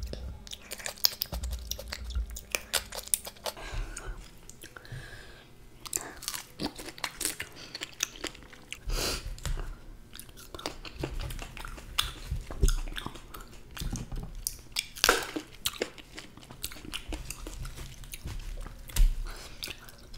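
Close-miked chewing of fresh fruit: repeated bites and crunches with sharp mouth clicks.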